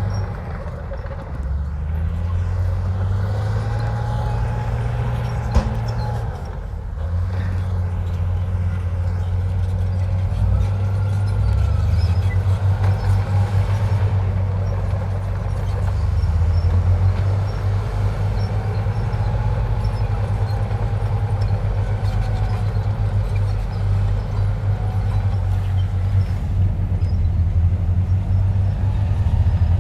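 Heavy diesel earthmoving machinery running under shifting load, its engine note changing level several times, with a higher whine that rises and falls now and then.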